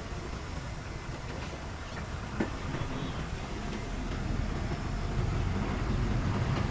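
Heavy diesel earthmoving machinery running with a low, steady rumble that grows louder toward the end, with a single knock about two and a half seconds in.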